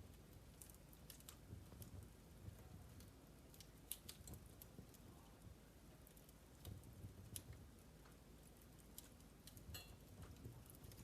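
Wood fire crackling faintly: irregular sharp pops and snaps from the burning logs over a low, soft rumble.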